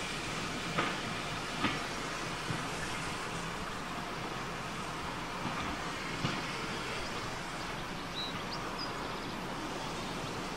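Steam train of old wooden-bodied carriages rolling away at low speed, a steady rolling noise with a few sharp clicks scattered through it.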